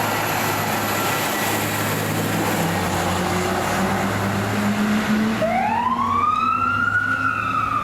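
Fire truck engine running with road noise. About five seconds in, a siren starts, winding up quickly to a high pitch and then slowly falling away.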